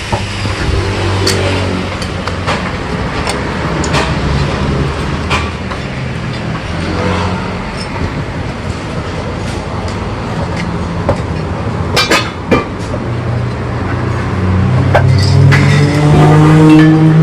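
Honda VFR1200F's V4 engine running through its exhaust: a steady idle with scattered sharp clicks, building into a louder rev over the last few seconds.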